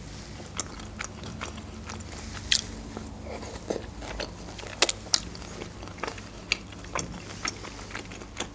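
Close-miked chewing of a mouthful of soy-sauced fried beef and vegetables: wet mouth clicks and smacks at irregular intervals, a few sharper ones about halfway through.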